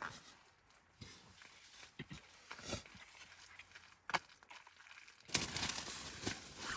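Scattered light clicks and rustles of handling food and utensils, then a louder, steady rustling about five seconds in.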